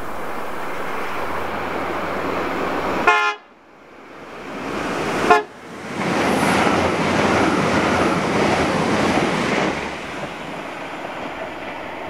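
Iarnród Éireann 22000 Class diesel railcar approaching and sounding two short horn toots, about three seconds in and again about two seconds later, then passing close by with a loud rush of engine and wheel noise that drops away about ten seconds in.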